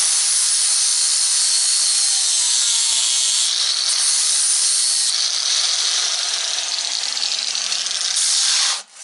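Power grinder grinding the edge of a hardened-steel mower blade: a steady, high, harsh grinding hiss that cuts off suddenly near the end.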